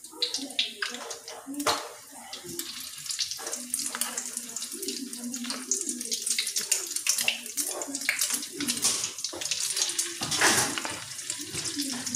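Egg-dipped potato-and-tofu fritters (perkedel) deep-frying in hot oil in a wok: a steady sizzle with irregular crackles and spits.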